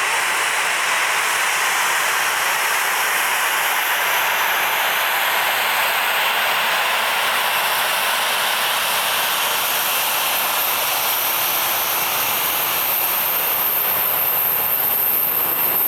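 Airbus A320 jet engines running steadily for takeoff: a continuous rushing noise with a thin high-pitched whine that grows louder near the end.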